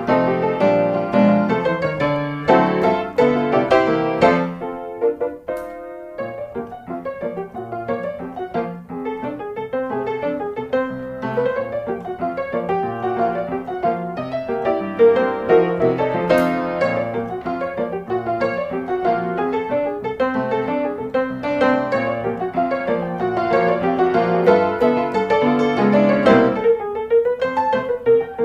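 Background piano music: a flowing melody over chords.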